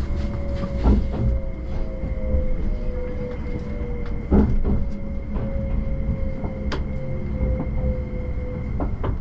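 Cabin of a Tobu Spacia X electric limited express train in motion: a steady low rumble from the running gear, with a faint electric whine that slowly falls in pitch. A few sharp knocks sound at irregular moments.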